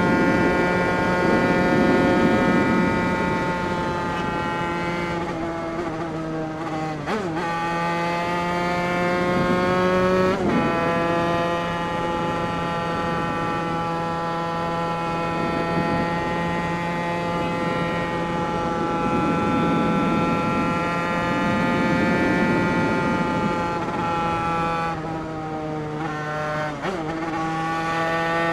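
Two-stroke engine bored out with an 80cc MHR Team kit and fitted with a Bidalot expansion pipe, running hard under way. Its pitch drifts slowly, with three brief sharp dips in revs: one about a quarter of the way in, one about a third in, and one near the end.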